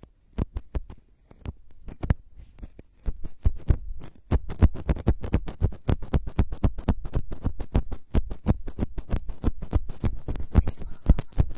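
ASMR trigger sounds made right on the microphone: rapid, irregular crackling taps and scratches. They are sparse at first and become a dense, continuous patter from about four seconds in.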